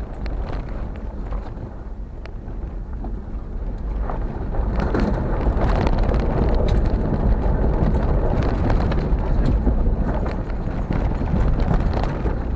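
A vehicle driving along a road: a steady low rumble with many small knocks and rattles, louder from about four seconds in.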